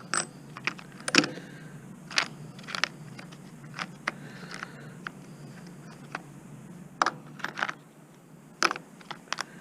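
Irregular small metallic clicks and knocks of hand tools and loose parts being handled while an appliance motor is dismantled for scrap.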